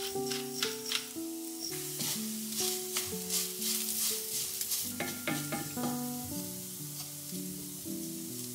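Diced potatoes sizzling in a frying pan while a wooden spatula stirs and scrapes them, most strongly in the middle of the stretch. A light background melody plays throughout.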